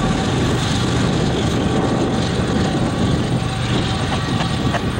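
Rear distributed-power GE ES44AC diesel locomotive of a coal train running away along the track: a steady diesel engine drone under wheel-on-rail rumble, with a few sharp clicks near the end.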